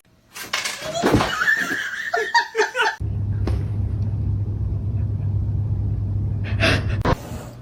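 A person laughing in short pulses, followed by a steady low hum with a brief louder noise near the end.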